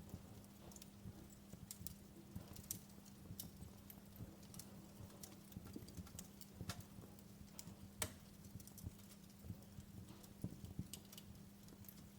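Wood fire crackling: irregular sharp pops and snaps, a few standing out, the loudest about eight seconds in, over a low steady hum.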